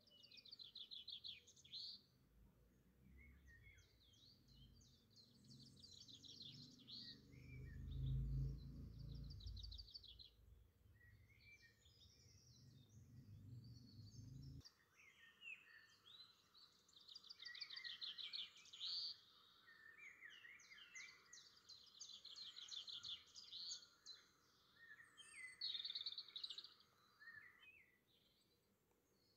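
Faint birdsong: small birds chirping and giving rapid trills, with a low rumble underneath that stops abruptly about halfway through.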